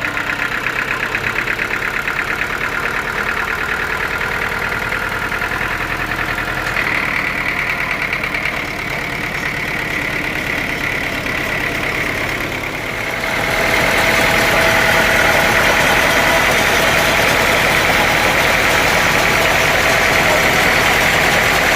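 Sawmill machinery running steadily with a constant whine, which grows louder about thirteen seconds in and holds there.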